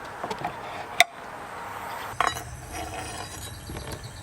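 Cookware clinking and knocking against the glass top of an induction hob: a sharp click about a second in, then a duller knock about a second later, with small rattles around them.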